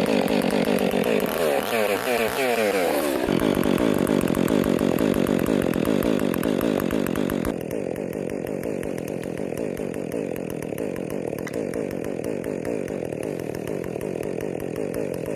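Chainsaw running at high revs and cutting wood. About two seconds in the engine pitch dips and climbs back up, and about halfway through the sound turns duller and slightly quieter.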